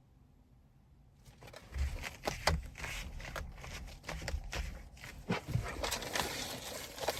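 Handling noise from pink decorative accessories being fitted onto a car's steering wheel: an irregular run of rustles, clicks and low knocks that starts about a second in.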